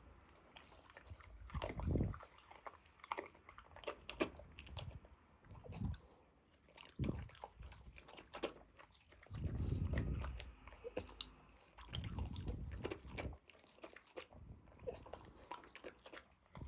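A dog chewing and crunching food, with irregular sharp bites and clicks and several low rumbling bursts in between.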